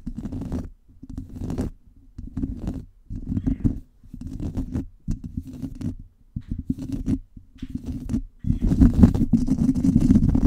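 Microphone being scratched directly, hard and fast: a rough, low, rumbling scrape in about eight strokes roughly a second apart, then continuous, denser scratching near the end.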